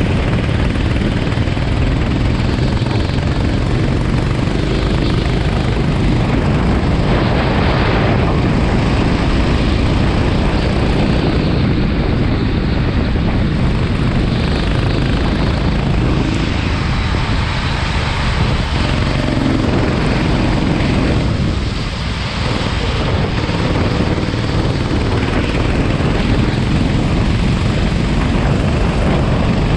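Racing kart engine running hard under throttle. It eases off briefly about two-thirds of the way in, as if lifting for corners, then picks up again.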